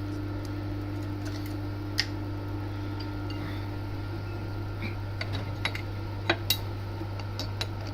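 Scattered light metallic clicks and clinks as a drill bit is loosened and reset in a milling machine's collet chuck, over a steady low machine hum.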